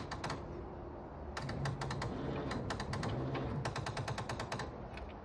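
Ford 3930 tractor's starter solenoid chattering: two runs of rapid clicks, about ten a second, as the key is held to start. The battery is likely too flat to crank the engine after nine years of sitting.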